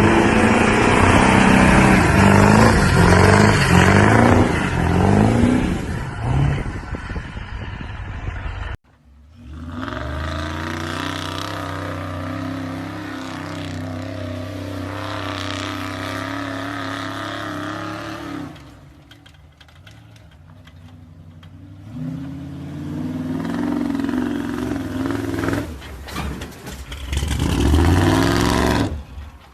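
Old pickup truck engines across several cuts: revving hard with the pitch swinging up and down, then cut off suddenly about nine seconds in, followed by a steady running note, a quieter stretch, and more revving near the end.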